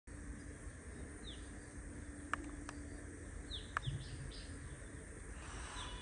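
Quiet outdoor background with birds giving a few short, falling chirps. Three sharp clicks stand out around the middle.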